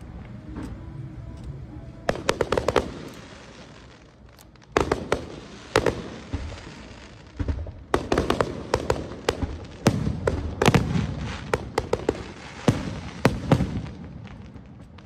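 Aerial fireworks shells bursting overhead: clusters of sharp bangs and crackles with low rumbling between them, coming thickest in a rapid barrage over the second half.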